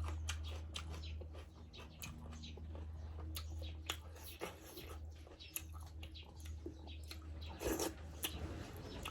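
Close-up eating sounds: the irregular wet clicks and smacks of someone chewing, with one short louder rush of noise about three-quarters through, over a steady low hum.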